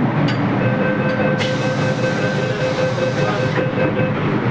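MTR M-Train metro car running at speed: a steady rumble with a faint steady whine over it, and a high hiss that starts about a second and a half in and stops about two seconds later.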